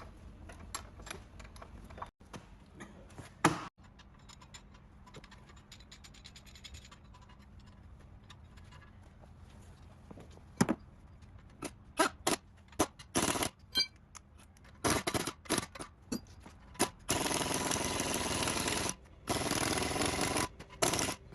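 Hand tools clinking and knocking on metal while a car's strut assembly is worked on, then, near the end, two steady runs of a power tool of about two seconds each.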